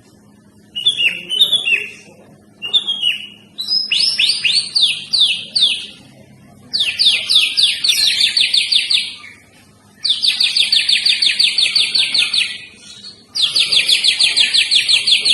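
White-rumped shama singing: a few short whistled chirps, then four long rapid-fire bursts of quickly repeated sweeping notes, each lasting two to three seconds with brief pauses between.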